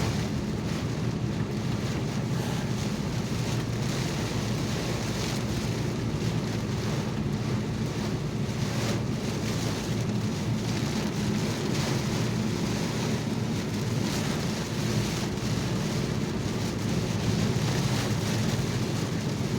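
Heavy rain on a moving car, heard from inside the cabin: a steady wash of rain and tyre noise on the wet road.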